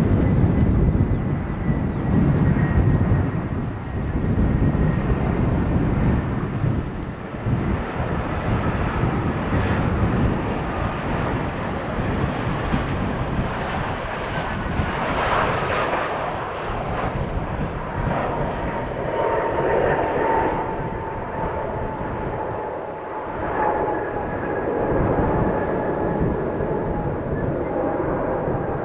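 Jet airliner's engines running as it passes, a heavy rumble strongest in the first few seconds with a thin engine whine that slowly drops in pitch through the second half.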